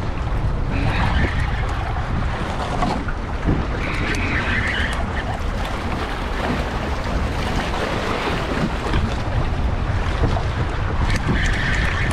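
Strong wind buffeting the microphone as a steady low rumble, over the wash of choppy water around a kayak.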